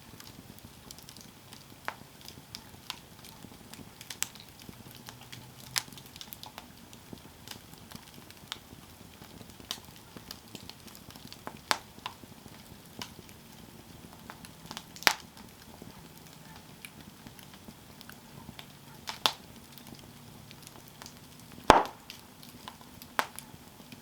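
Campfire burning, the wood crackling with irregular sharp pops over a soft hiss. One louder pop comes near the end.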